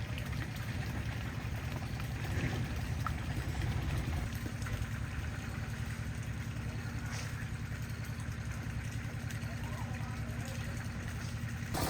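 Concrete mixer's engine running steadily with a low, even hum.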